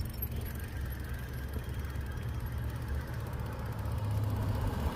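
Steady low rumble of wind buffeting an action camera's microphone while riding a bicycle.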